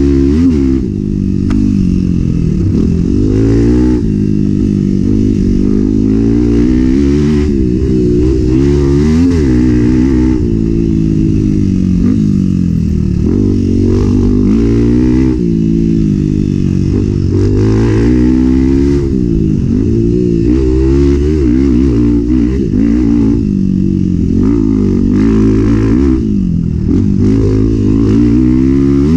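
Enduro motorcycle engine revving up and down over and over, its pitch rising and falling every second or two as the throttle is opened and closed.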